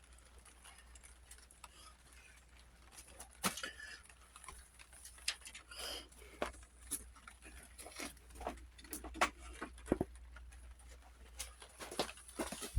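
Scattered light clicks, taps and knocks of hand tools working on the tractor's metal parts, irregular, with a few sharper knocks.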